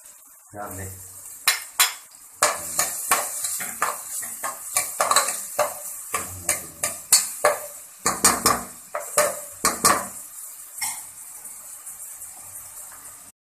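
Chopped onion and garlic sizzling in hot olive oil in a pan while a utensil stirs and scrapes against the pan, giving many quick clinks. After about ten seconds the clinks stop and only the sizzle goes on, which cuts off suddenly right at the end.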